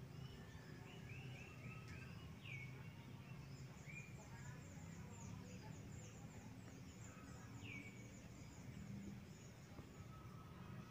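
Faint birdsong: small birds chirping, with a quick run of high chirps through the middle and a few separate short calls, over a low steady hum.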